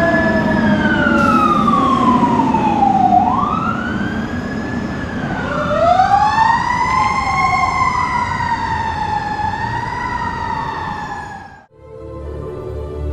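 Emergency vehicle sirens wailing, at least two overlapping sirens rising and falling in pitch out of step with each other. They cut off abruptly near the end, and orchestral music begins.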